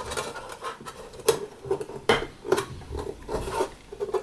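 Bent aluminium sheet-metal box being handled, with irregular scraping and a few light metallic knocks.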